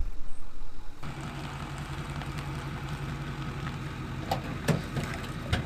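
An engine idling steadily, its hum starting abruptly about a second in, with a few sharp clicks or snaps near the end.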